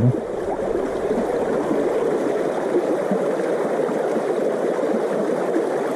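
Small river running: a steady rush of flowing stream water.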